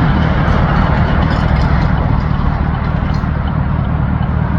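Steady low rumble of vehicles and traffic, with no distinct events.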